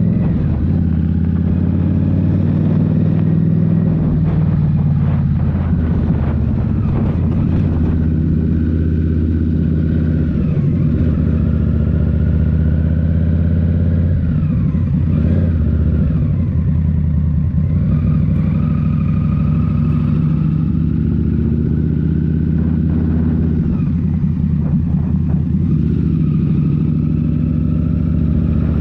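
Indian Scout Rogue's liquid-cooled V-twin running through a Rinehart slip-on exhaust while riding, the engine note steady with small rises and falls in pitch.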